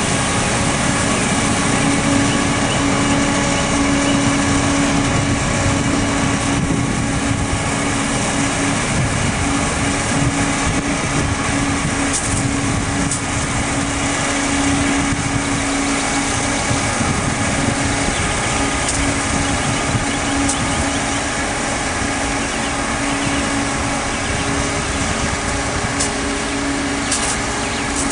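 Mack water truck's diesel engine running steadily, with a constant droning hum over it.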